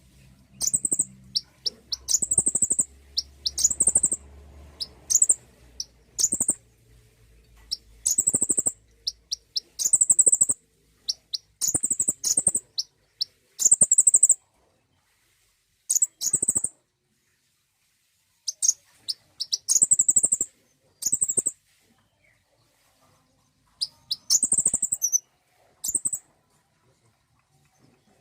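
Konin sunbird song used as a lure call: short phrases of high, thin chirping notes with quick upward sweeps, repeated every second or two, with a few longer pauses after the middle.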